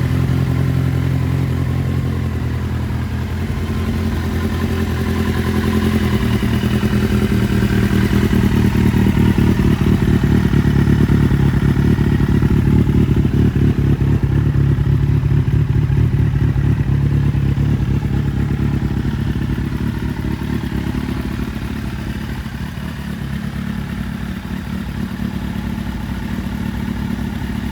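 Kawasaki Z800's inline-four engine running. Its pitch shifts in steps a couple of times early on, it grows louder through the middle, and it eases off toward the end.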